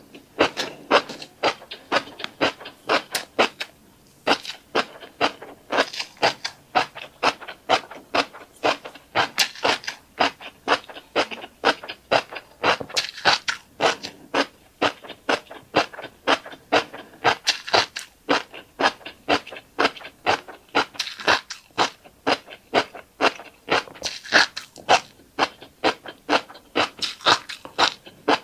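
Close-miked chewing of a mouthful of tiny dry black seeds: a fast, even run of sharp crunches and clicks, about three a second, without pause.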